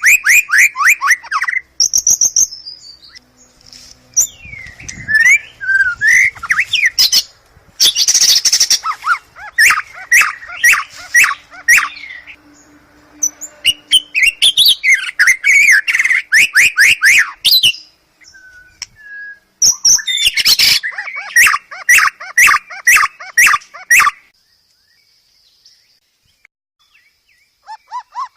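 White-rumped shama (murai batu) singing loudly in phrases of a few seconds: fast runs of repeated sweeping whistles mixed with sharp clicking notes, separated by short pauses. The song stops a little after three quarters of the way through and starts again at the very end.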